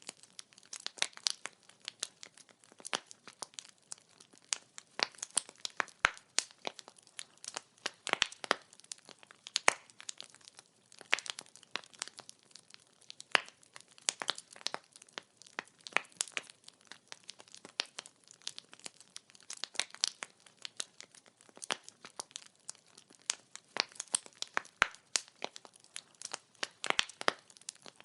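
Burning firewood crackling: a steady stream of sharp, irregular cracks, several a second, over a faint hiss.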